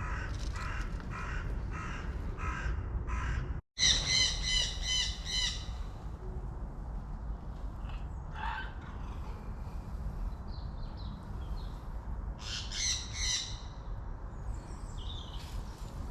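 Captive birds calling: a run of about eight harsh caw-like calls in quick succession, then a short break in the sound. After the break come loud, high squawks in bursts, repeated a few times.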